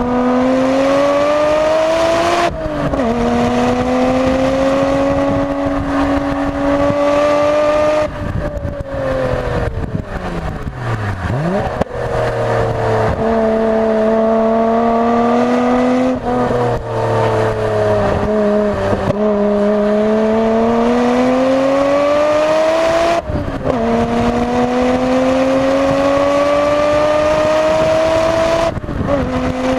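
Onboard sound of a Nissan Skyline GT-R R33 V-Spec's twin-turbo RB26DETT straight-six, fitted with N1 turbos, driven hard on track. The engine note climbs through the gears, with quick upshifts a few seconds in, about three-quarters through and again near the end. Around a third of the way in it falls away and drops down the gears for a corner, then pulls up again.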